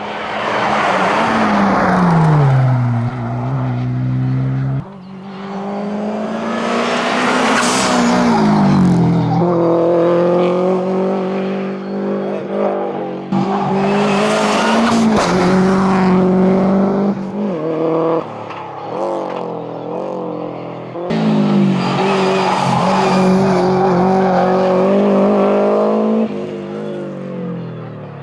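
Rally cars at full throttle on a hillclimb: first a Hyundai i20 N, then a Subaru Impreza WRX STi's turbocharged flat-four, revving hard through gear changes. The engine note climbs and drops repeatedly as the car accelerates, brakes and shifts, heard from several spots along the road.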